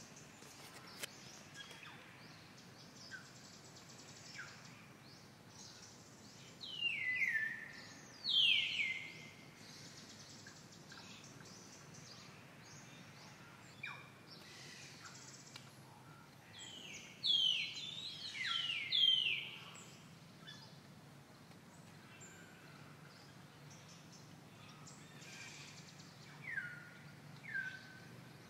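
Birds calling: short, clear whistled notes that each slide downward in pitch. They come in clusters about a quarter of the way in and around two-thirds through, with two more near the end, over a steady background hiss.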